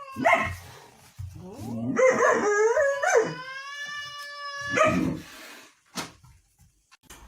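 Dog howling: a short rising yelp at the start, then a long howl that wavers in pitch before holding steady and breaking off about five seconds in.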